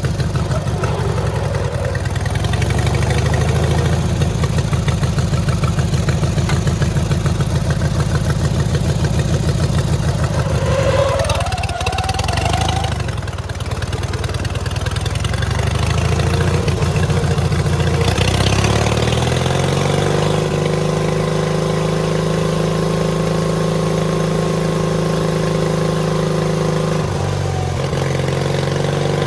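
Rebuilt 18 hp engine of a mud-racing lawn mower running under load. Its speed sags about twelve seconds in, then climbs and holds at a higher, steady pitch, with a brief dip near the end.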